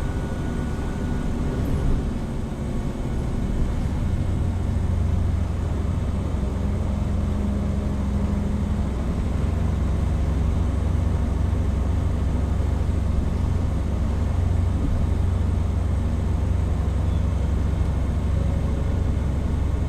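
Hino Rainbow HR (PB-HR7JHAE) route bus heard from inside the cabin: steady diesel engine drone with road noise as the bus drives along. It gets louder about four seconds in, then holds steady.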